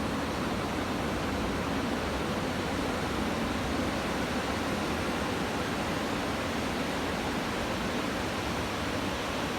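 Ocean surf from a typhoon swell: a steady, even rush of breaking waves, with no single crash standing out.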